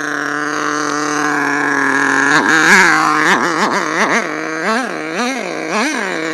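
HPI Savage S25 4.1cc two-stroke nitro engine running at a fast idle with no throttle applied, a sign that the idle is set too high. From about two and a half seconds in, its pitch swings rapidly up and down several times, then it settles back to a steady note near the end.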